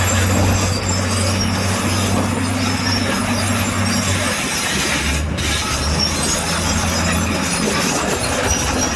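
Crawler bulldozer at work: its diesel engine running steadily under the rolling clatter of steel tracks.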